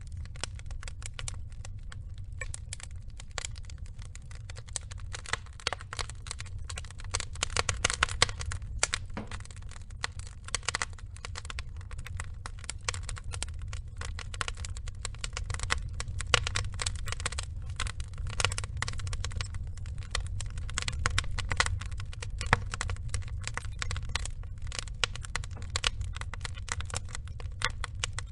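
Wood fire burning: a dense, irregular crackling of small pops and snaps from the burning logs over a steady low rumble of the flames.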